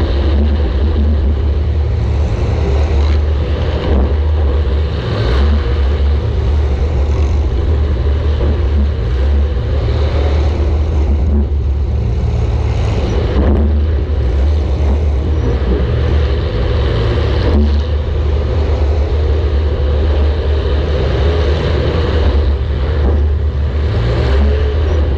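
Compact demolition derby car's engine running hard: a loud, steady low drone, with a few short knocks scattered through it.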